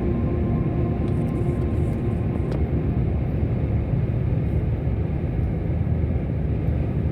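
Truck on the road: a steady low rumble of engine and road noise.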